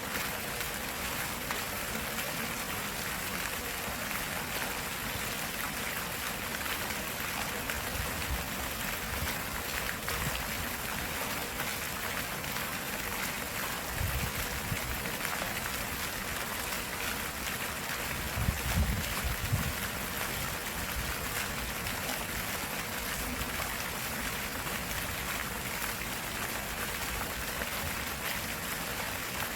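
Stream water running steadily, an even rushing babble. Brief low rumbles break in twice near the middle.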